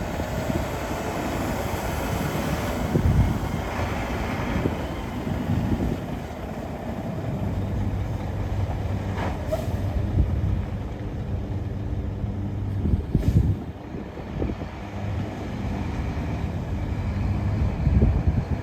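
Mack GU713 mixer truck's diesel engine running steadily at idle, with a few low thumps on the microphone.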